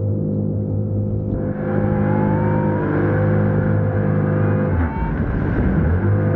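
Aquanami JetAngler Pro jet kayak's engine running under throttle; about a second and a half in it speeds up, its pitch rising, then it holds steady with a brief easing near the end.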